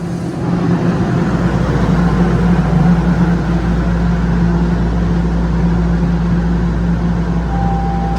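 TTC Toronto Rocket subway train running at the station with a steady hum, a deeper low rumble joining about a second in. A short high tone sounds near the end.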